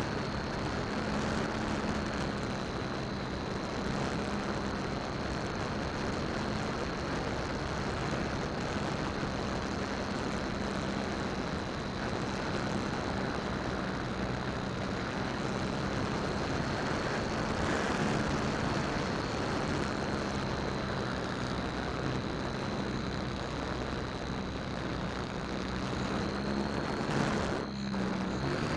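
Electric motor and propeller of a Harbor Freight P-51 Mustang RC model airplane in flight, heard from a keychain camera mounted under its belly. A steady high motor whine rides over propeller and wind rush.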